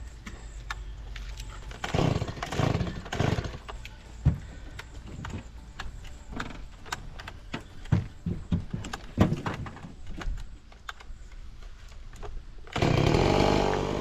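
Gas chainsaw running, with scattered knocks and clatter. Near the end it revs loudly for about a second.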